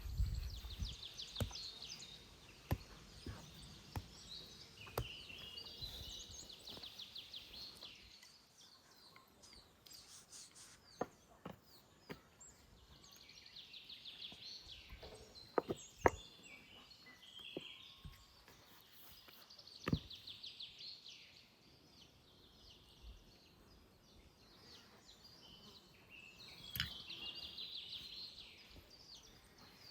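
Songbirds singing outdoors, with high trilled phrases repeating every few seconds. Scattered sharp knocks and clicks from work close by, the strongest about halfway through.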